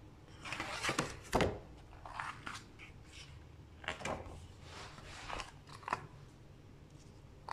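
Paper rustling from a picture book's pages being handled and turned: a string of short swishes and crinkles, the sharpest about a second in.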